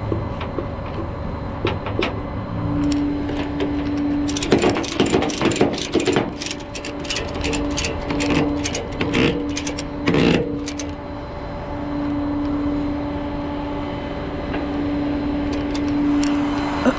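A truck running with a steady hum that cuts in and out several times, and a run of rapid metallic clanks and rattles from about four to eleven seconds in.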